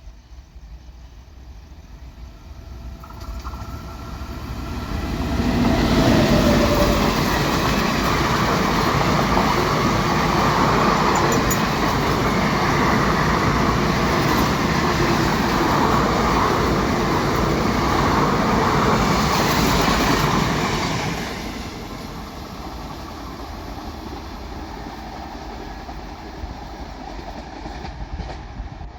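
Indian Railways express train behind a WAP7 electric locomotive passing at speed. Its rumble and wheel clatter build over a few seconds, stay loud for about fifteen seconds as the coaches go by, then fall away to a quieter rumble.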